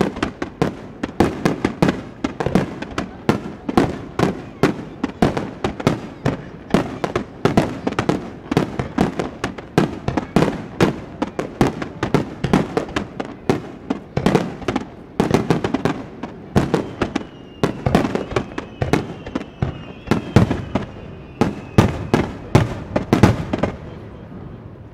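A rapid barrage of aerial firework shells bursting, several sharp bangs a second in a dense, uneven run that starts abruptly and stops near the end.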